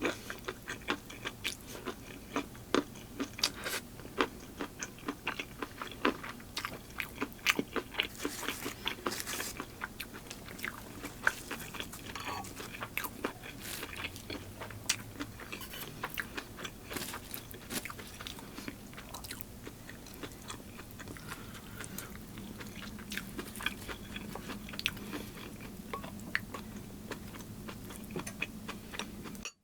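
A person biting and chewing crunchy food close to the microphone: a dense run of crisp crunches and mouth clicks that thins out toward the end.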